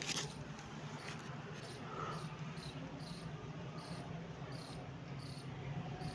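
High-pitched insect chirping, short chirps repeated evenly about two to three times a second, over a steady low hum.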